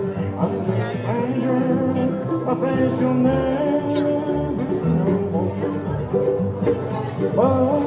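Bluegrass band playing live, a steady run of plucked string music.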